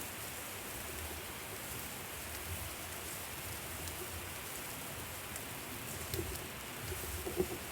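Food sizzling on a hot barbecue grill: a steady, even hiss with fine crackling ticks, and a few short low sounds near the end.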